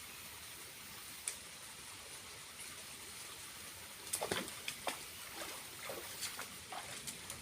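Small waterfall: falling water splashing with a steady hiss. From about four seconds in comes a run of sharp drips and splashes.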